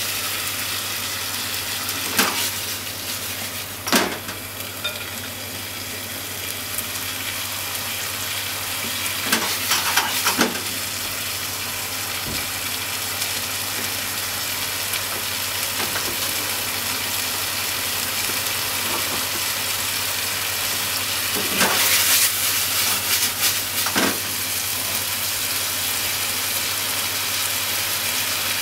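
Pork and onion slices sizzling in a frying pan over a gas flame, a steady frying hiss. A few short bursts of clicking and scraping from chopsticks stirring against the pan, the loudest a little past twenty seconds in.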